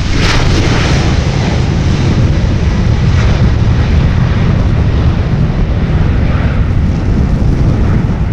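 Airliner engines running loud and steady: a deep rumble with a hiss on top.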